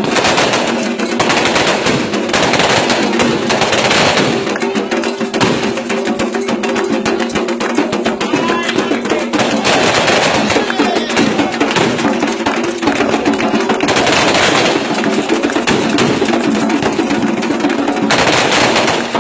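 Candomblé ritual music: drums and percussion with held chanting, over a dense, continuous crackling, with louder swells every few seconds.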